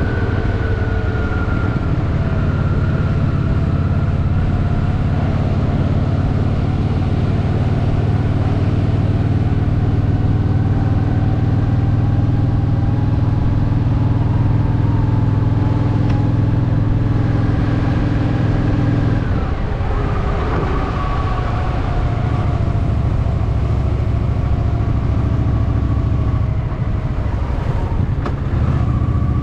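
Honda Shadow VT750's V-twin engine running under way. The engine note drifts slowly up, then changes abruptly about two-thirds of the way through and settles lower.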